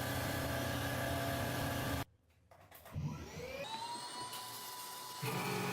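An electric power tool motor runs steadily with a hum, then cuts off abruptly. A motor then spins up with a rising whine that levels off, and the steady running sound comes back suddenly near the end.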